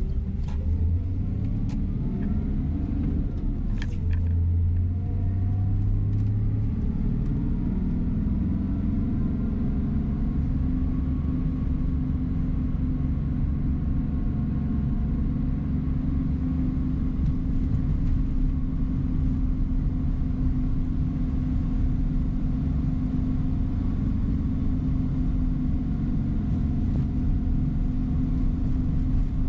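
Coach bus running on the road, heard from inside the cabin: a steady engine and road hum, with a few knocks in the first few seconds.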